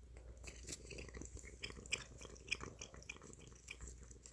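A cat chewing a treat: a quick, irregular run of faint crunching clicks.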